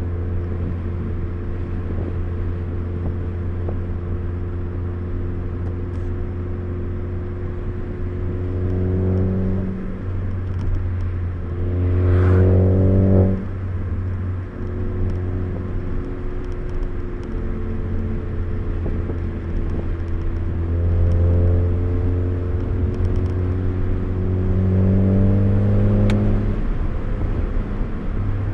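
Four-cylinder car engine heard from inside the cabin while driven briskly. The revs climb several times, each climb ending in a sudden drop as the driver shifts or lifts off.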